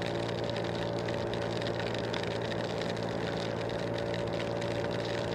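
Scooter engine running at a steady speed while riding, with a steady hiss and fine patter of rain and wind over it.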